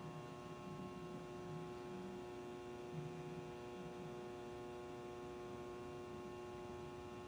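A microwave oven running off a 2000-watt power inverter fed by a 12-volt battery, giving a steady electrical hum with a buzzy edge. The load is pulling the battery down to about 10.8 volts.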